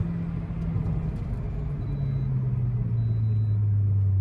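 Stage-2 tuned Volkswagen Polo's engine running while driving. About two seconds in its note starts falling steadily in pitch as the revs drop.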